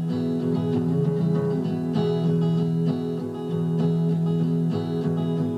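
Acoustic guitar strumming chords in a steady rhythm, over sustained held notes.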